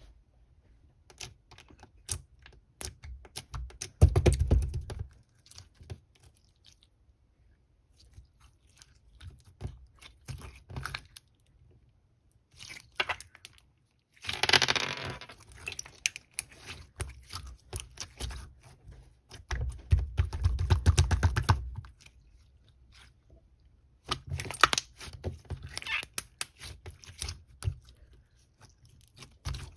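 Slime being squished and stretched by hand: sticky clicks and crackly pops, in several louder bursts of a second or two with quieter gaps of scattered clicks between them.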